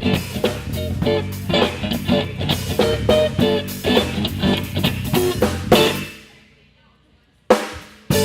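Live blues trio of electric guitar, bass guitar and drum kit playing an instrumental passage. About six seconds in the band hits a stop and the sound dies away to near silence; a single sharp hit follows a second or so later, and the band comes back in near the end.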